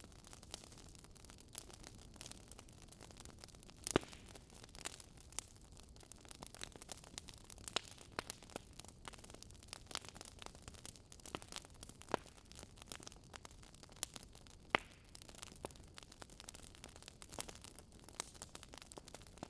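Wood fire crackling: irregular sharp pops and snaps over a soft steady hiss, with two louder pops, one about four seconds in and one near fifteen seconds.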